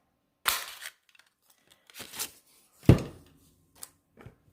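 Cardstock rustling as it is positioned, then a sharp clunk just under three seconds in as a 2 1/4 inch circle punch is pressed down through the card, followed by a couple of light clicks.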